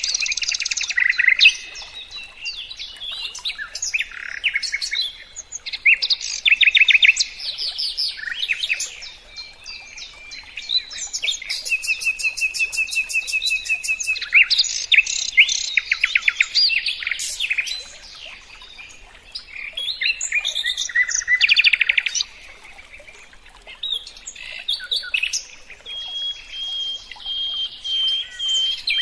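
A songbird singing a long, varied song of fast trills, chirps and whistled notes, with short lulls between phrases.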